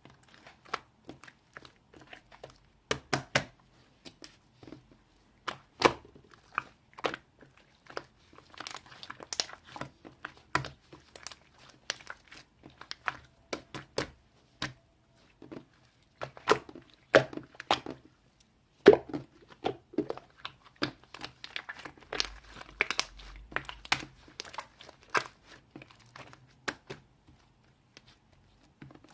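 Close handling noises: irregular crinkling, tearing and clicking of objects being worked by hand.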